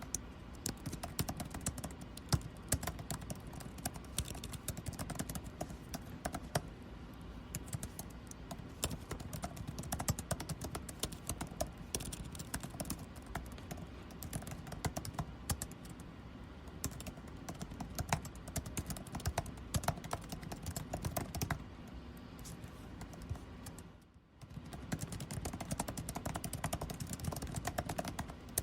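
Continuous typing on a computer keyboard, keys clicking in quick irregular runs, over a steady low air-conditioning hum. The sound briefly dips almost to quiet about 24 seconds in.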